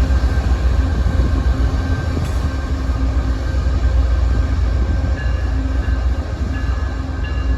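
A train running past with a steady, loud low rumble and a few faint steady tones above it.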